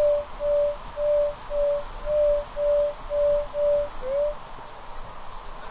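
Metal detector giving a repeated mid-pitched beep, about two a second, as the search coil passes over a buried metal target; the beeps stop a little over four seconds in, leaving a steady hiss.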